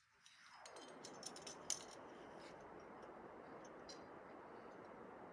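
A few light metallic clicks and clinks of climbing gear in the first couple of seconds, one more near the end, over a steady faint hiss.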